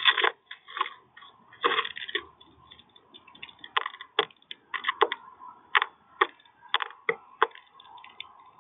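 Birds pecking at seed on a bird feeder: a rapid, irregular run of sharp taps and cracks, with some strokes close together and some spaced out.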